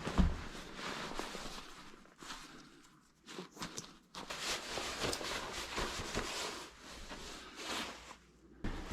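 Rustling and shuffling handling noises with small clicks, broken by a brief near-silent gap about three seconds in.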